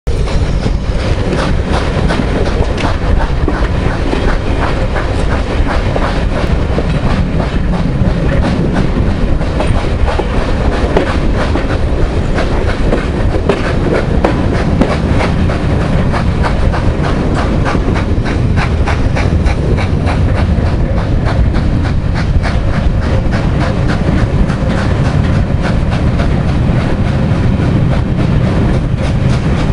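Passenger coaches of a steam-hauled train running at speed, heard from an open carriage window: wheels clattering in a quick, regular clickety-clack over rail joints and points, over a steady heavy rumble.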